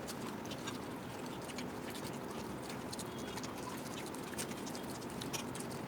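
Faint, scattered clicks and taps of people eating a meal from plates, over a steady low room hiss.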